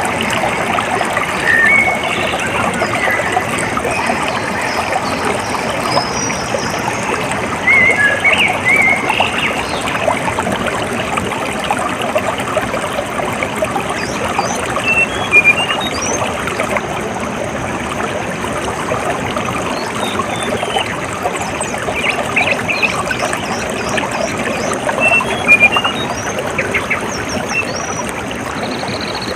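Water trickling and pouring steadily, with small birds chirping briefly now and then above it.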